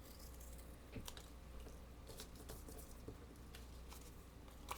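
Small scissors snipping paper, cutting out paper shapes in faint, irregular snips.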